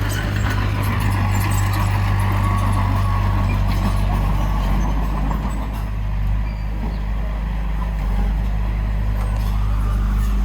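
Heavy diesel engine of earthmoving machinery running steadily at a low, even hum.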